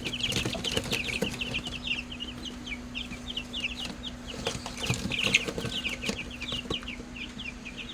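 A brood of three-week-old chicks peeping continuously: many short, high, falling peeps overlapping one another. A faint steady hum runs underneath.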